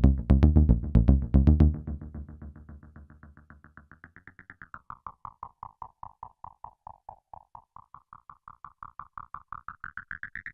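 Synthesizer bass notes from a Behringer Neutron through an MXR Carbon Copy analog delay pedal: the played notes stop under two seconds in, and the delay's echoes carry on as a fast, even train of fainter repeats. The pitch of the repeating tail glides up, falls back, then rises again near the end.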